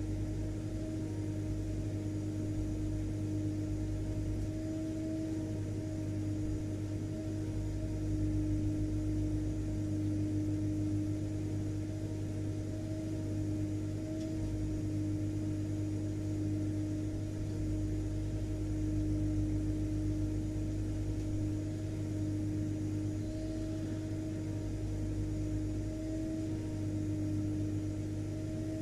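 Vacuum cleaner motor running continuously: an even rushing drone with a constant mid-pitched whine over a low hum.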